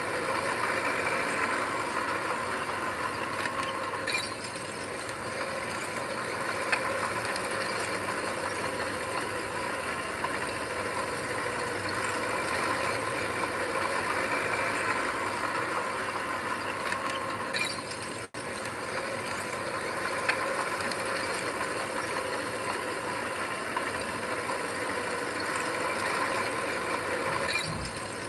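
Diesel engine of heavy earthmoving machinery running steadily, with mechanical clanking and rattling over it. There is a very brief drop-out about two-thirds of the way through.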